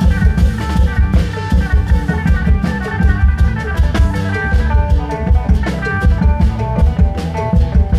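Isan klong yao band playing live: long drums and drum kit keep a steady, driving beat under a fast melodic line of short notes.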